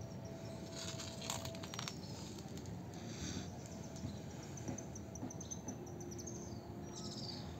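Outdoor riverside ambience with birds chirping over a steady background of noise. Through the middle a bird gives a fast run of short, high, evenly spaced chirps.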